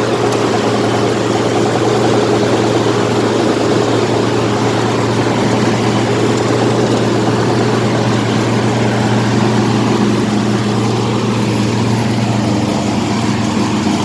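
Rice combine harvester's diesel engine running steadily under load, its pitch shifting slightly about twelve seconds in.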